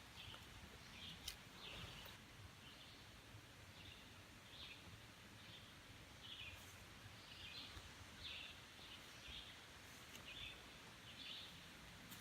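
Faint bird chirping: short high calls repeated about once a second over quiet outdoor background, with one brief click about a second in.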